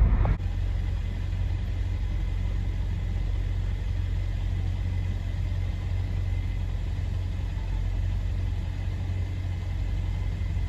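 Steady low rumble of a Kia car heard from inside the cabin, its engine and road noise running evenly without change.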